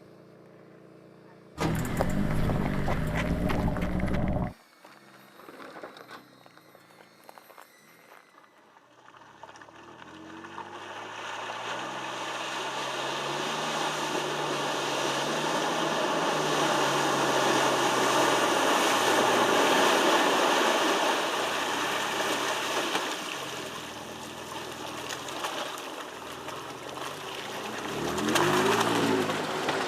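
Ford Ranger Raptor's 3.0-litre petrol V6 running and revving as the truck drives off road, the engine pitch rising and falling under a broad rush of tyre and wind noise. The sound is cut between shots, and swells to its loudest in the middle before easing off, with another rev near the end.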